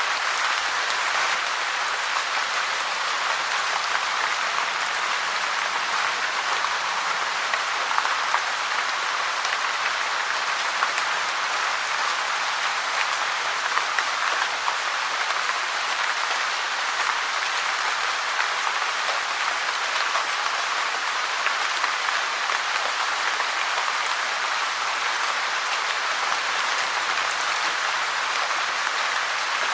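Steady rain falling: an even hiss of rain with small drop clicks scattered through it.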